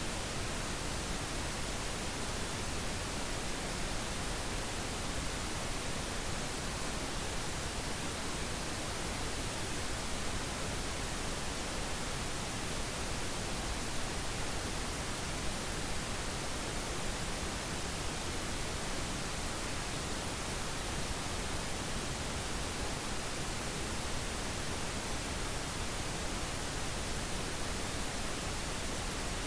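Steady, unchanging pink noise: an even hiss spread across all pitches, with no tones or breaks.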